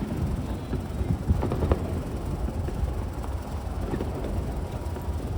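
Fireworks bursting overhead: a continuous low rumble with dull booms, two close together about a second and a half in and another near the end.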